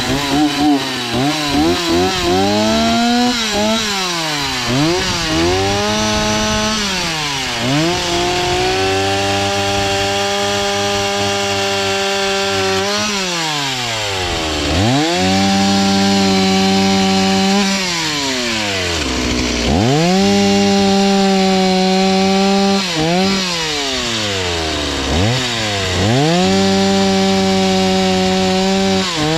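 Power saw cutting wood: the motor holds a steady high pitch under load, and five times winds down almost to a stop and quickly speeds back up as it is let off and opened again.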